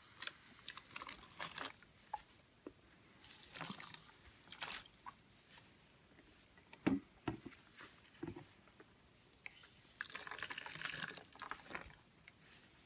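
Boiling water poured and splashing over an EGR valve, rinsing off oven cleaner and loosened carbon, with scattered small clinks of handling and a knock about seven seconds in. A longer stretch of pouring comes near the end.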